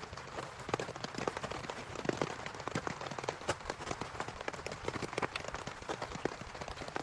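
Heavy rain falling, with many separate drops striking close by at an irregular, rapid rate over a steady hiss.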